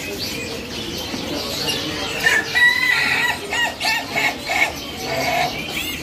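A bird gives a quick run of short, harsh pitched calls, about five a second, starting about two seconds in and lasting some two and a half seconds, over a background of many caged birds chirping.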